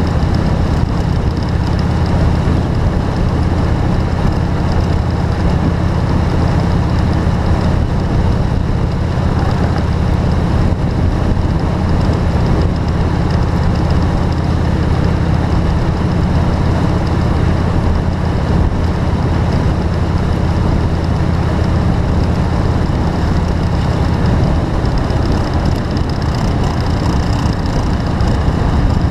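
A vehicle travelling in rain: a steady low engine and road drone under an even hiss of rain, the drone easing somewhat near the end.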